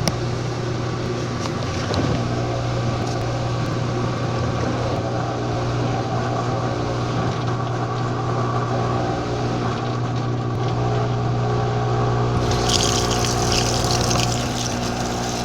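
Washing machine running with a steady electric pump hum and water moving through it. About twelve seconds in, a hissing rush of water joins the hum.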